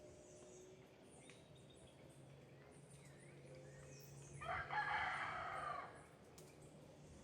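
A rooster crows once, starting about four seconds in and lasting about a second and a half, over faint scattered chirps of small birds.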